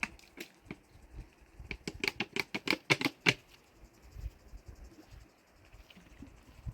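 A quick run of about ten sharp knocks or taps, hard objects striking each other, bunched within a second and a half, after a few single clicks near the start.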